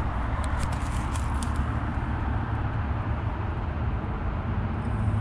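Outdoor heat pump unit running: a steady rush of air from the condenser fan over a low compressor hum.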